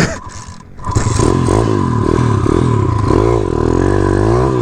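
Small-displacement pit bike engine running and revving up and down while riding a trail. A few short knocks come first, and the engine takes over about a second in.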